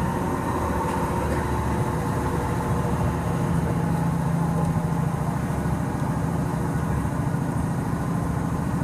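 Steady low hum of a stopped electric commuter train standing at the platform.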